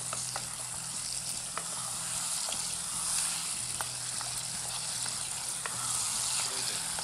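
Potatoes and a tomato-and-pickle spice masala sizzling steadily in a nonstick pot as they are fried and stirred with a spatula. A few light clicks of the spatula against the pot come through the sizzle.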